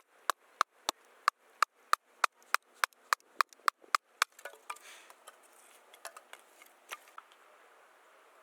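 Knife chopping on a cutting board in steady strokes, about three a second, stopping about four seconds in, followed by a few scattered lighter knocks.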